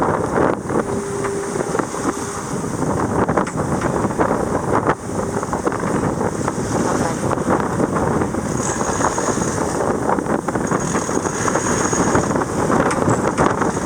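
Steady wind buffeting the microphone, with rushing sea water, aboard a sailboat under way in a squall.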